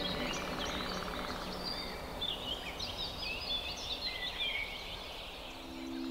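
Birds chirping and singing, with many short quick notes, over a steady outdoor hiss. Ambient music fades out at the start, and a low held tone of the next piece comes in near the end.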